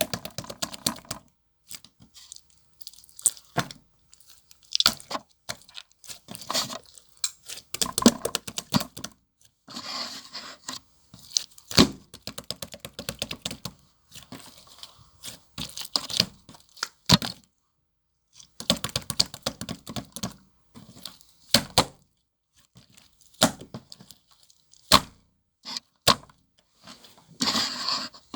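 Irregular close-up crackles, taps and crunchy bursts, broken by short pauses.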